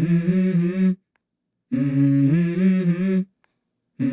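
A hummed vocal melody from a song, in repeated phrases of a few held notes stepping up and down, each phrase about a second and a half long with a short dead silence between.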